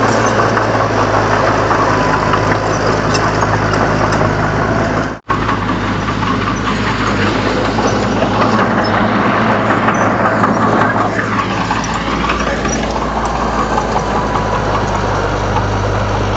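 Komatsu D31 crawler bulldozer's diesel engine running steadily, with a brief gap about five seconds in where the recording cuts.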